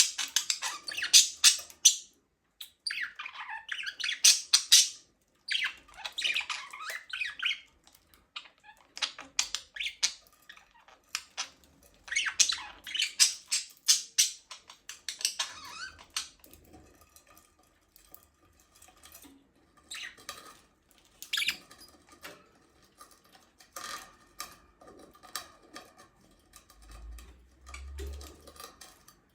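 Budgerigars chattering and squawking, busiest in the first half and thinning out to scattered calls and small taps later on.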